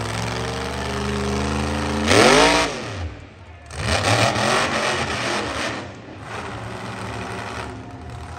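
Monster truck engine running, then revving hard about two seconds in, its pitch shooting up and falling away again within half a second. A loud rushing noise without a clear pitch follows for about two seconds.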